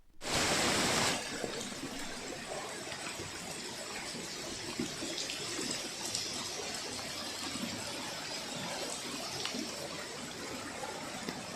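Steady rush of running water, with a louder gush for about the first second and a few small splashes or drips on top.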